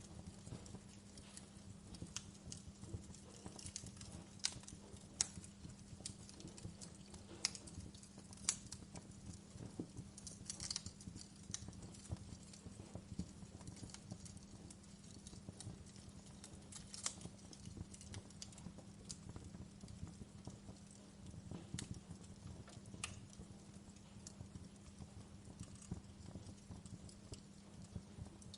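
Wood fire crackling: irregular sharp pops and snaps of burning logs, a few louder pops scattered through, over a low steady hum.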